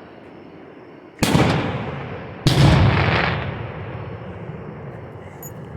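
Two aerial firework shells bursting, about a second apart, the second the louder; each is a sharp bang followed by a long echo that slowly fades.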